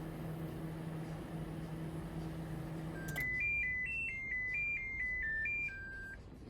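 Hitachi MRO-JT231 steam oven microwave running with a steady low hum, which stops with a click about three seconds in. The oven then plays its electronic end-of-heating melody, a run of about a dozen short beeped notes, signalling that heating has finished.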